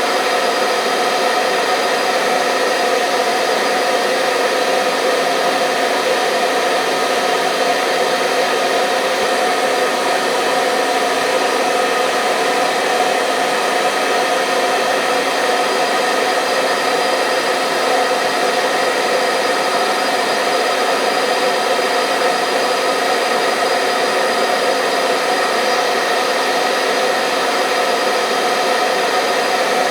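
Hair dryer running steadily: an even blowing rush with a constant motor hum, a looped white-noise track for lulling babies to sleep.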